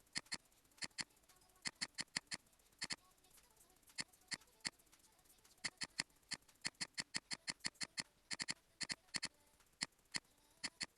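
Computer mouse buttons clicking at an irregular pace, several times a second in places and some in quick double-clicks, over a near-silent background.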